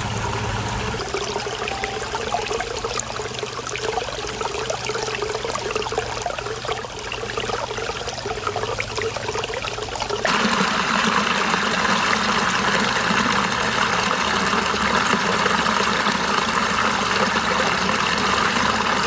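Water of a waterfall running low over rocks, a steady rush that becomes suddenly louder about ten seconds in.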